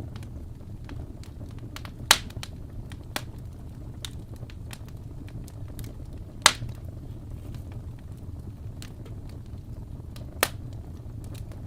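Wood fire burning in a fireplace: a steady low rumble of flames with light crackling throughout, and three loud sharp pops from the burning logs, about two, six and a half, and ten and a half seconds in.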